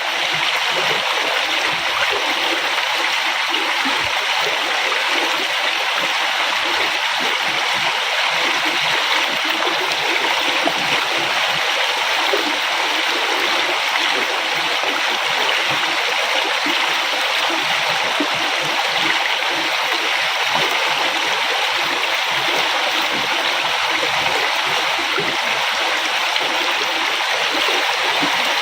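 River water flowing over rocks in a steady, even rush with a light burble.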